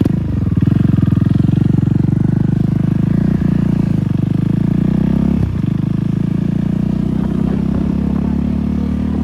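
KTM Duke 390 single-cylinder engine, silencer removed, idling steadily at an even pitch with its firing pulses plainly heard. It has a brief dip about five and a half seconds in, then runs steady again.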